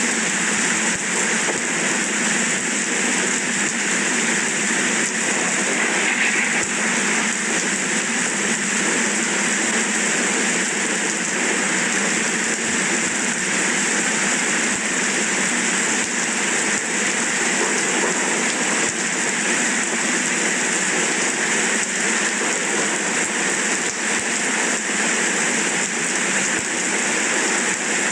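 Steady rain falling at an even level, with no breaks or thunderclaps.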